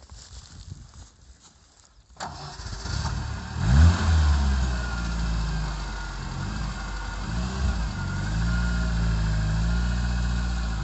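LuAZ off-roader's VAZ 21083 1.5-litre four-cylinder petrol engine starting about two seconds in, revved briefly just before the four-second mark, then running at a slightly uneven idle.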